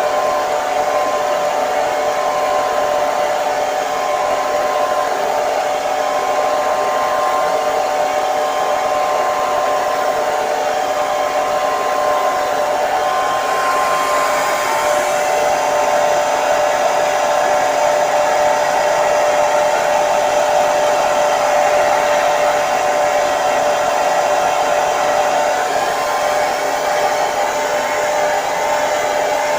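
Hair dryer running steadily: a constant blowing hiss with a steady motor whine.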